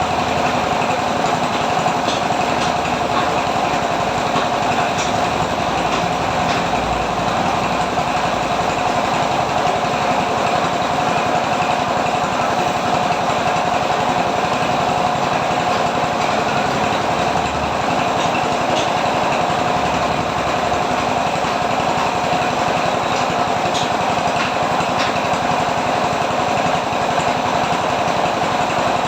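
A machine running steadily with a constant whine over a dense mechanical rattle.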